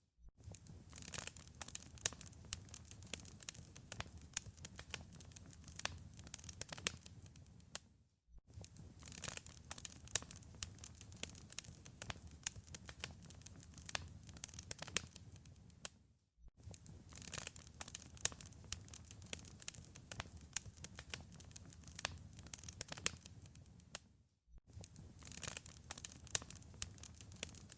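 Wood fire in a fireplace crackling, with many sharp pops and snaps over a soft low rumble of flame. The sound cuts out for a split second about every eight seconds.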